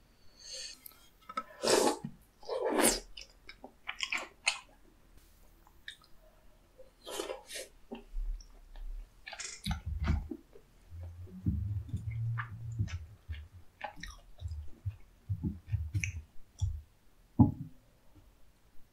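Close-miked chewing and wet mouth sounds of someone eating spicy soupy tteokbokki and battered fried snacks. A few sharp smacks and slurps come in the first seconds, then a soft, low, steady chewing rhythm takes over in the second half.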